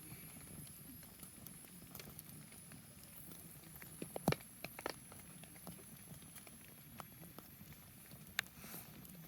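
Wood fire crackling, with scattered sharp pops; the loudest come in a cluster about four seconds in, and another comes near the end.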